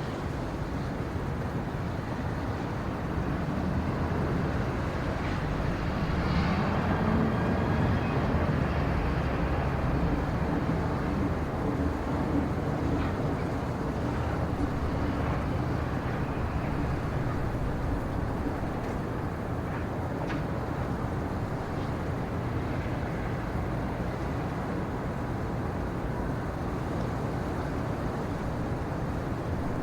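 Steady low rumbling background noise with no clear events, swelling a little from about four seconds in and easing after ten, with a few faint ticks.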